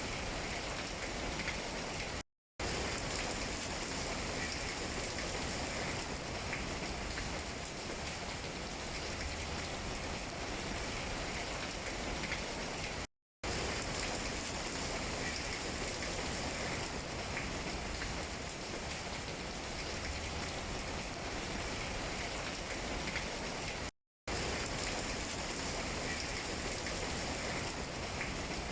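Steady rain falling on tree leaves, an even hiss of many drops. The sound cuts out to silence for a split second three times, about ten seconds apart.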